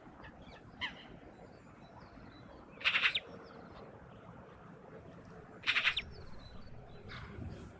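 Birds calling: a short, harsh call of about a third of a second repeats roughly every three seconds, the last one fainter. Faint, thin high chirps come between the calls over a soft outdoor background hiss.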